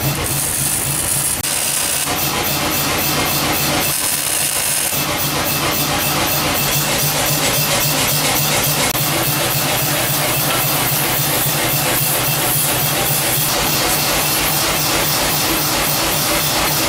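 A power tool running steadily, a continuous mechanical noise with a hissy top; a brief high-pitched whine comes in twice in the first few seconds.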